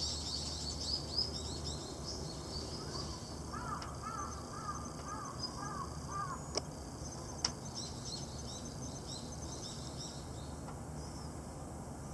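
Wild birds calling outdoors: many short high chirps, and in the middle a run of about eight quick, arching calls. Two sharp clicks come about a second apart just after the middle, over a steady low rumble.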